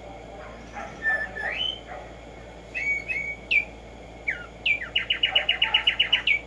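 Black-striped sparrow singing: a few separate slurred whistles, then a fast run of about a dozen clear notes near the end.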